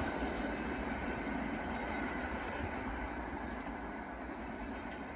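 A train running away along the track, its noise fading slowly as it draws off.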